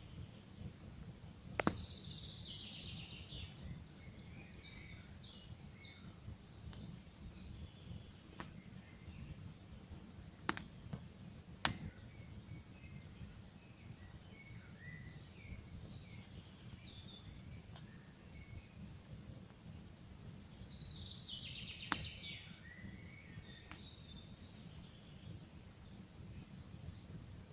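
Campfire crackling with a few sharp pops under songbirds singing in the forest; two longer cascading bird songs stand out, one about two seconds in and another about twenty seconds in.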